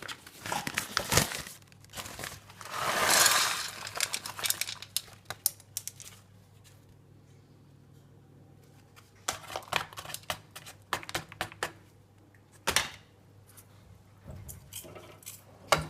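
Crinkly sheet material being handled, torn and cut with scissors: bouts of crinkling, a tearing swell a few seconds in, and scattered sharp snips and clicks, with a quieter lull midway.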